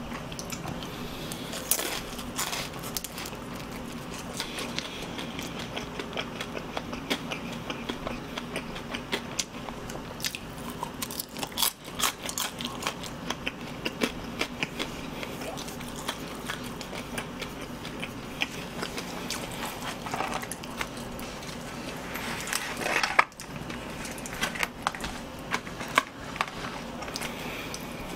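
Close-miked biting and chewing of fried chicken: crunching bites and wet chewing with many small crackles, and one sharp louder bite about two thirds of the way through.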